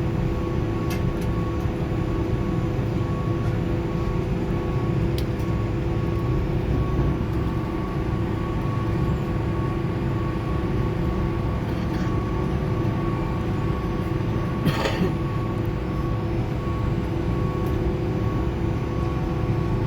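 Airbus A310 cabin noise: a steady rumble and engine hum with a few steady tones, a few faint clicks, and a brief rattle or knock about fifteen seconds in.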